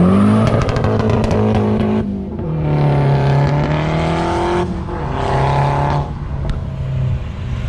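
Car engine revved hard three times, each rev held a second or two before dropping back, with a quick run of sharp pops about a second in.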